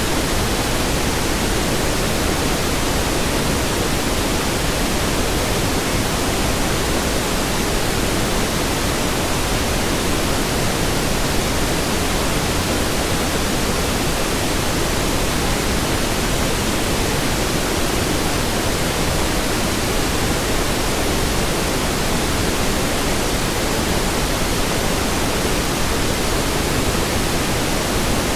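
Steady synthetic pink noise: an even hiss spread across all pitches, with no change in level.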